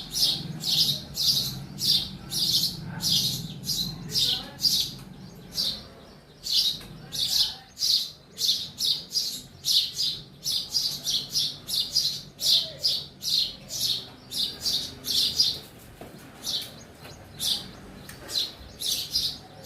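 Sparrow chirping over and over in short, sharp chirps, about three a second, with a couple of brief pauses.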